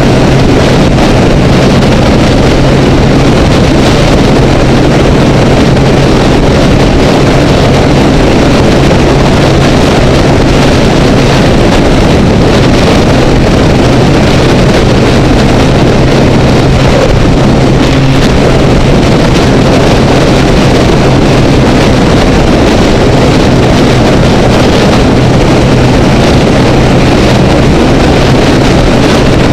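Honda Rebel motorcycle engine running at a steady cruising speed on the freeway, its drone holding one pitch, under heavy wind rush on the camera.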